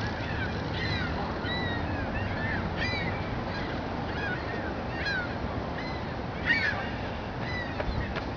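Birds calling outdoors: a series of short, arched calls, roughly one a second and irregularly spaced, over a steady background hiss.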